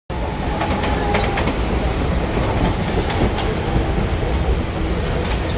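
Mumbai Local suburban electric train running on the track: a steady rumble with irregular clicks of the wheels over rail joints.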